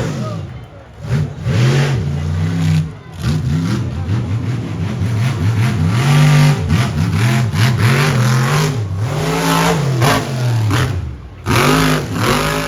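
Monster truck engine revving hard, its pitch swinging up and down over and over as the throttle is blipped and held, with brief lulls near the start and shortly before the end.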